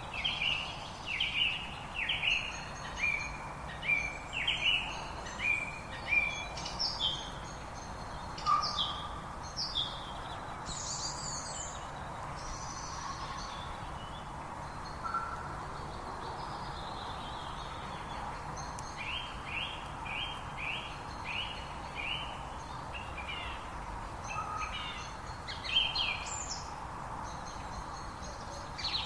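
Songbirds chirping in runs of quick, falling high notes, with a lull in the middle, over the steady rush of a river.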